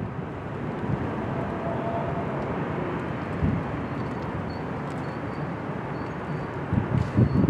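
Steady, even roar of jet airliner engines heard from the airport perimeter.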